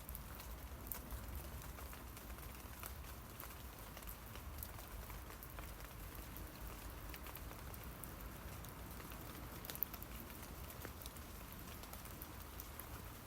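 Rain falling on tree leaves: a steady patter with single drops ticking here and there, one sharper drip about ten seconds in, over a low rumble.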